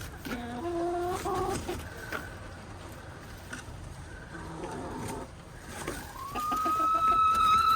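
Chickens clucking with short calls, then one long, loud, high drawn-out call near the end.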